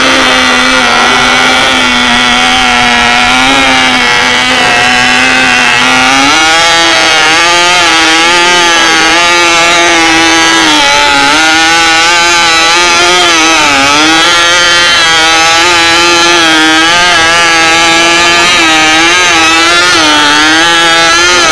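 Nitro engine of a John Deere micro tractor running loudly at high revs. About six seconds in its pitch steps up, then it wavers with repeated short dips as the throttle is worked.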